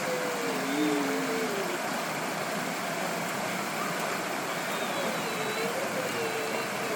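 Steady rushing of a mountain stream, with faint distant voices briefly in the first two seconds and again near the end.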